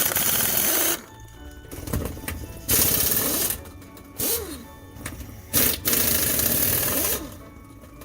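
Impact wrench hammering the rear wheel's lug nuts loose. It comes in three long bursts of about a second each, with shorter blips between and a brief whine that rises and falls as the tool spins up and down.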